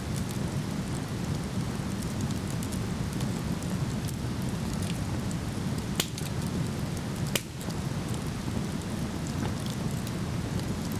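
Steady rush of a waterfall with a wood campfire crackling over it: small pops throughout, and two sharper pops about six and seven and a half seconds in.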